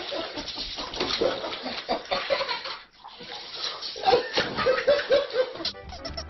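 Water splashing and sloshing in a barrel as a small cat thrashes about in it, with a person laughing in short bursts near the end.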